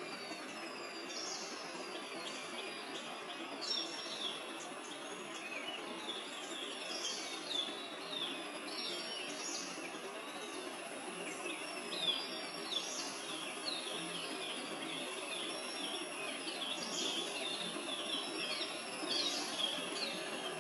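Wild birds chirping, many short quick calls and sweeping notes that keep coming, over a steady outdoor hiss.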